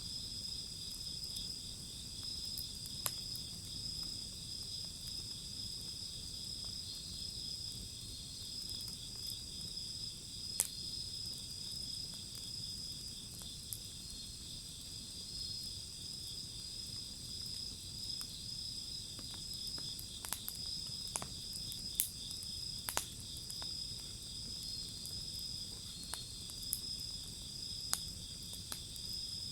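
Wood bonfire crackling, with a dozen or so sharp pops, most of them in the second half, over a steady high-pitched chorus of insects trilling.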